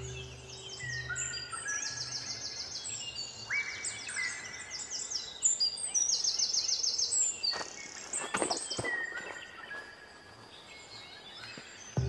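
Rainforest birds calling: many overlapping whistles and rapid trills. A low sustained musical tone fades out in the first two seconds.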